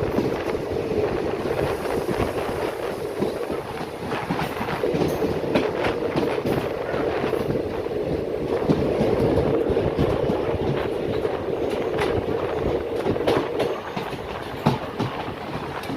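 Express passenger train running at speed on the rails: a steady, loud rumble with repeated clicks and clatter of the wheels over the track.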